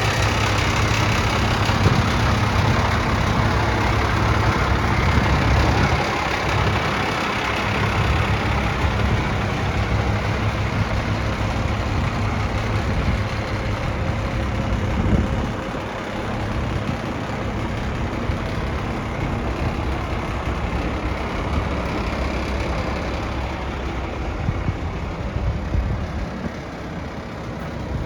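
International DT466 inline-six diesel in a 2005 International 4900 truck, idling steadily.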